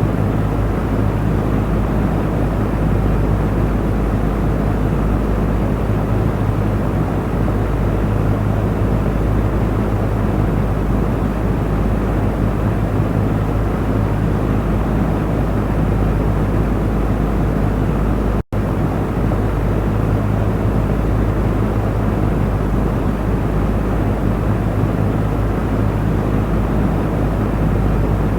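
Electric fan running steadily: a low motor hum under an even rush of air. The sound cuts out for an instant about two-thirds of the way through, then carries on unchanged.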